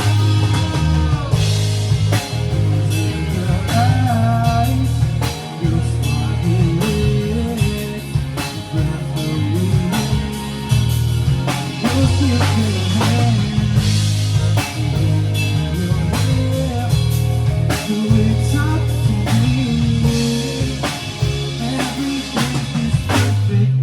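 Instrumental band music with drum kit, bass and an electric guitar playing bending lead lines over a steady beat.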